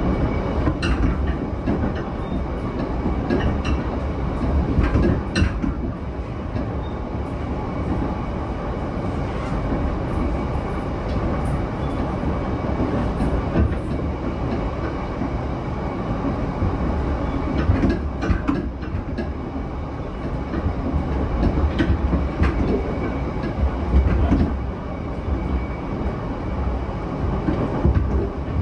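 Cabin running noise of a JR E233-7000 series electric commuter train travelling at speed: a steady rumble of wheels on the rails with a few sharp clicks.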